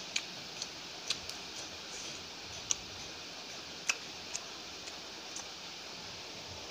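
Wet mouth clicks and smacks of a person chewing food, a sharp click every half second to second or so at an uneven pace, over a steady hiss.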